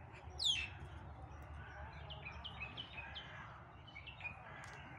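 Wild birds calling: one loud, sharp call sweeping down in pitch about half a second in, then a run of short, quick chirps, each dropping in pitch.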